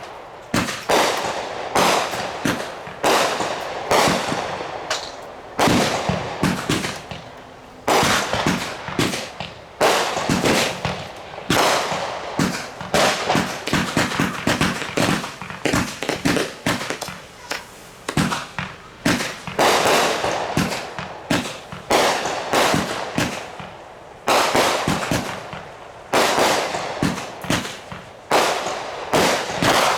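Consumer fireworks going off in a rapid barrage: many sharp bangs a second, each trailing off in crackle, with louder clusters every second or two.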